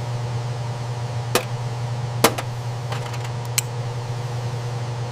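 Steady low hum with a few sharp clicks or taps over it, the loudest a little past two seconds in.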